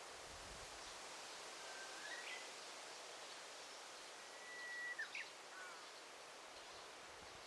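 Forest ambience: a steady faint hiss with a songbird whistling twice. Each call is a held clear note ending in quick notes; the second is longer and is the loudest sound.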